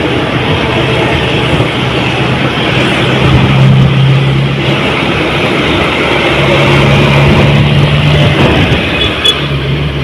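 Truck on the move: engine running under heavy road noise, its low hum growing stronger for stretches of a couple of seconds.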